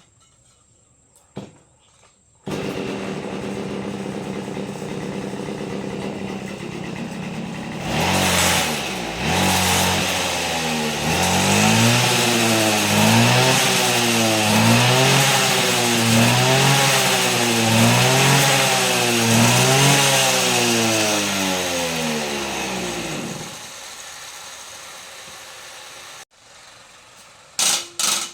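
Kubota engine starting abruptly and running. Its speed then rises and falls over and over in a regular rhythm, about once a second, before it drops back and stops.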